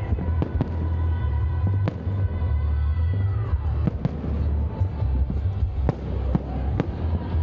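Fireworks display: bursting shells give repeated sharp bangs at irregular intervals over a steady low rumble.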